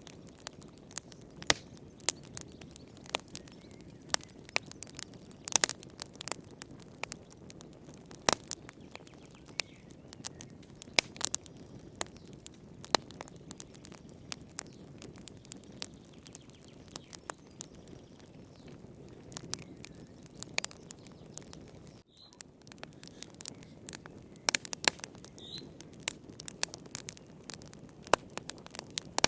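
Wood fire burning in a fireplace: irregular sharp crackles and pops of varying loudness over a steady low rustle of flames.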